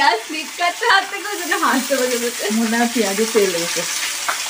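Thin-cut potato sticks sizzling as they fry in hot oil in a karahi, with a voice heard under the sizzle.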